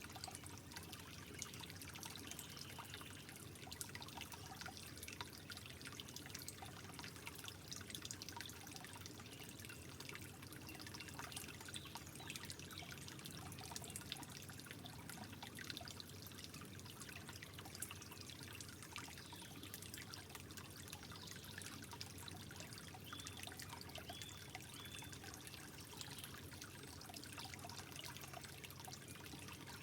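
Water trickling gently, a soft steady flow dotted with many small drips and plinks.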